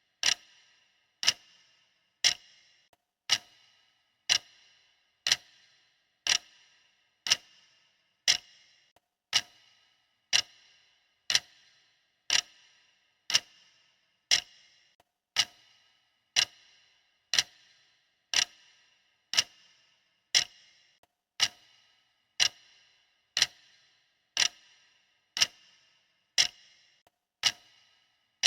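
Clock ticking steadily about once a second, each tick a sharp click with a brief ring.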